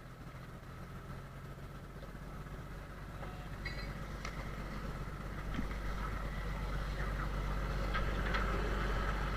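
Trawler's engine running steadily with a low hum, growing gradually louder, with a few light clicks and knocks over it.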